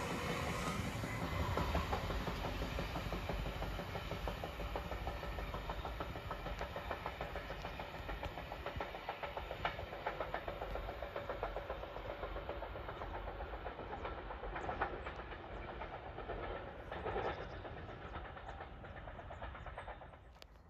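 Passenger train running away after passing by, its wheels clicking over the rails as the rumble fades steadily into the distance.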